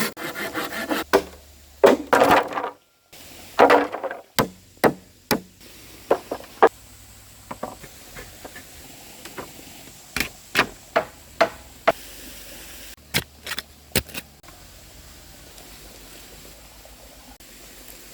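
Hand-tool work on wood or bamboo: irregular sharp knocks and strikes with rubbing and scraping between them, broken by a short gap about three seconds in.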